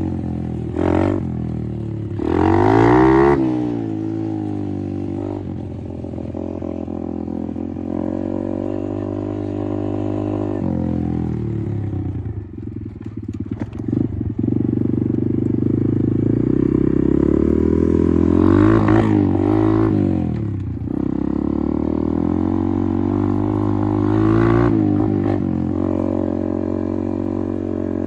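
Apollo RFZ 125 dirt bike's single-cylinder four-stroke engine running under riding, its revs rising and falling through several rev-ups. There is a choppy, uneven patch near the middle as the throttle comes off.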